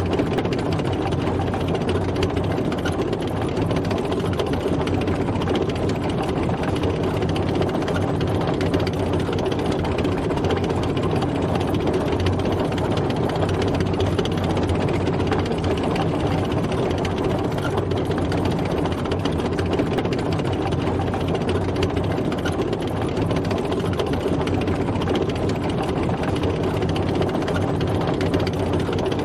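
Tank driving: a heavy engine running steadily under tracks, with no change in pace.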